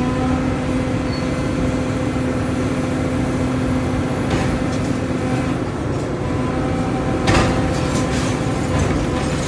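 Excavator's diesel engine running steadily with a held whine, with a sharp knock about seven seconds in and a fainter one about four seconds in.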